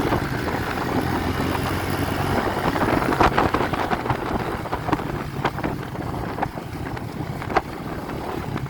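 A motor vehicle engine running at a steady low pitch, with rushing wind noise and scattered sharp clicks and ticks.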